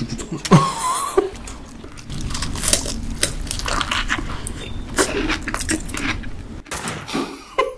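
Close-miked biting and chewing of a cold hamburger coated in shaved ice, full of small crackles and wet squishing as the icy bun and fillings are crushed.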